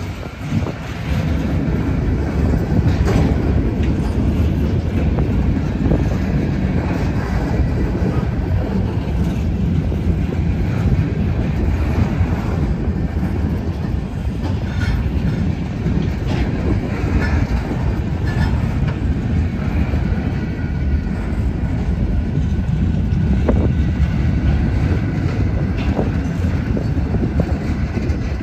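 A long freight train rolling past: a steady rumble of its cars' wheels on the rails, with scattered short clicks.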